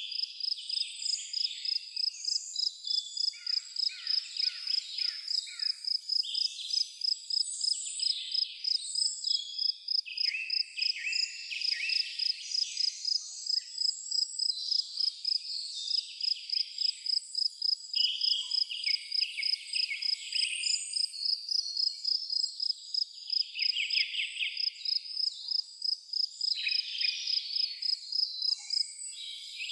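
A cricket chirping in a steady, even rhythm of about two chirps a second, with songbirds singing varied chirping phrases over it throughout.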